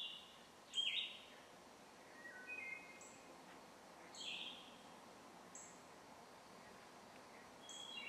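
Wild birds calling: scattered short, high chirps and brief falling whistled notes every second or so, the loudest about a second in, over a faint steady background hiss.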